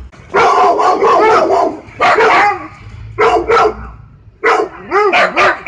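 Dog barking repeatedly in quick volleys of several barks, with short pauses between the volleys.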